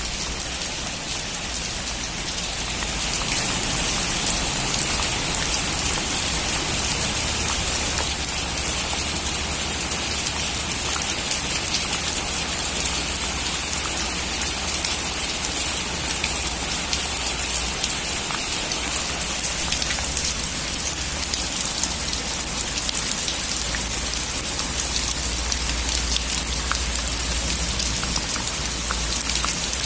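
Heavy rain falling on a metal roof: a steady hiss thick with individual drop ticks over a low rumble, growing a little louder about three seconds in.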